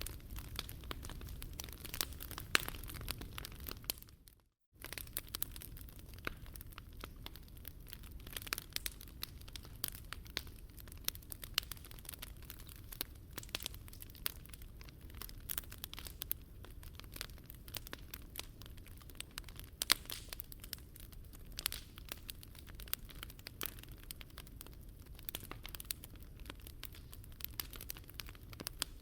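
Wood fire burning in a Picogrill 398 fire pit: dense, irregular crackles and pops over a low steady rumble of the flames. The sound cuts out for about half a second around four seconds in, then resumes.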